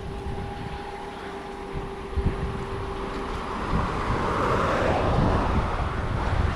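Road traffic passing on the nearby highway, a swelling rush of tyre and engine noise that is loudest about five seconds in, over wind buffeting the microphone.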